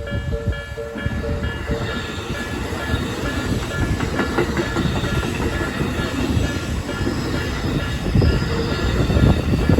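Japanese level-crossing alarm dinging about two and a half times a second, soon buried under the rising rumble and rattle of a Tobu Isesaki Line train passing over the crossing. The train noise grows louder toward the end.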